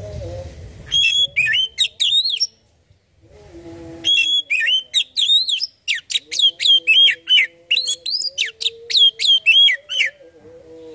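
Oriental magpie-robin (kacer) singing fast runs of clear, sweeping whistled notes: a short burst about a second in, then a longer run from about four seconds to ten. A faint low steady hum lies underneath.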